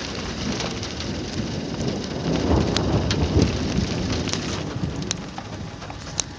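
Thunder rumbling, swelling about two seconds in and dying away over the next few seconds, over steady rain with scattered drops ticking close by.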